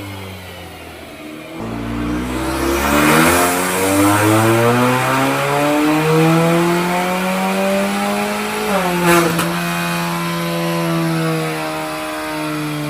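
Kia K3 GT's 1.6-litre turbocharged four-cylinder accelerating, its note climbing steadily for several seconds. Near the middle the revs dip and there is a single sharp pop, then the engine holds a steady note.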